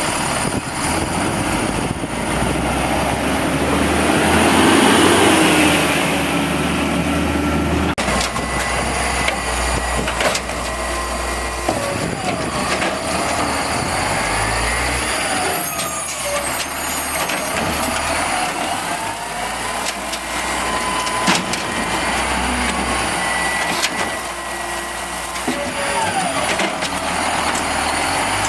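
Volvo Xpeditor garbage truck with an Amrep automated side loader at work: the engine runs with its pitch rising and falling again and again, loudest about four to six seconds in. There are air-brake-like hisses.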